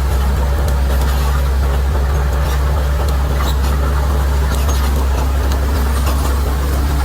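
Bulldozer's diesel engine running steadily with a deep, even hum, with scattered light clicks over it.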